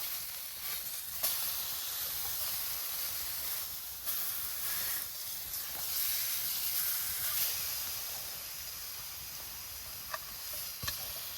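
Food sizzling over a wood campfire: a steady high hiss with a few sharp pops.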